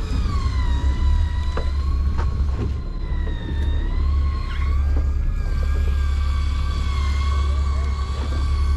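Electric fishing reel's motor whining steadily as it winds line up from deep water, its pitch wavering slightly with the load, over a low steady drone.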